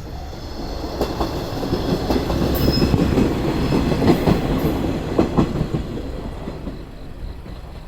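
KiHa 120 diesel railcar passing over a level crossing, its wheels clacking in pairs over the rail joints. It builds to its loudest in the middle and then fades away.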